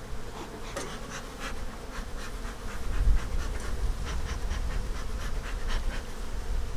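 Honeybees buzzing around an opened hive, a steady hum, with a run of light clicks and scrapes throughout.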